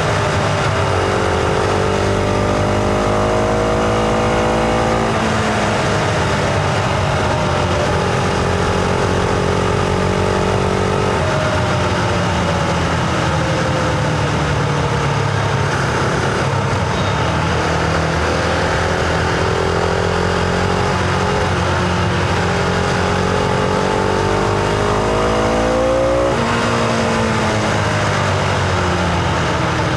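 Husqvarna Vitpilen 701's single-cylinder engine pulling the bike along, its note climbing and then dropping sharply with gear changes, about five seconds in, around eleven seconds and again near twenty-six seconds, over wind noise.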